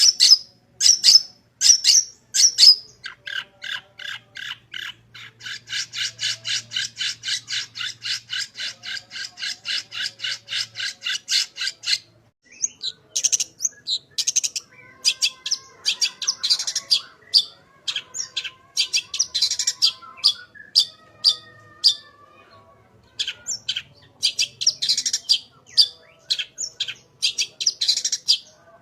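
Long-tailed shrike (cendet) in full song: a few harsh calls, then a rapid, even chatter of about five notes a second lasting some six seconds, then a busy run of sharp chirps and thin whistled phrases mimicking other birds.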